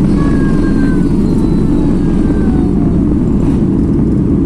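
Cabin noise of a Boeing 737 MAX 8's CFM LEAP-1B engines running at high power during take-off: a loud, steady low roar with faint whining tones sliding down in pitch.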